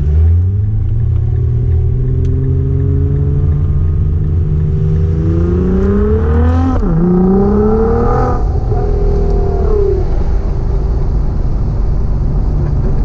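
Nissan GT-R R35's twin-turbo V6 heard from inside the cabin, accelerating with revs climbing steadily. About seven seconds in the pitch drops sharply at a gear change and climbs again. Then the revs ease off to a steady cruise from about ten seconds in.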